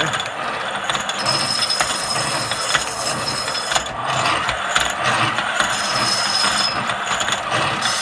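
Foot-powered Archimedean-screw treadle grinder running: the pumped screw drive rattles and clicks steadily with a thin high whine that comes and goes. The mechanism is un-oiled, which is what makes it noisy; greased up, it runs quiet.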